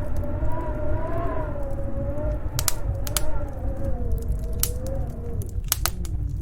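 Snowstorm wind howling with a slowly wavering pitch over a low rumble, with sharp crackles and pops from a wood fire scattered through it, several close together near the end.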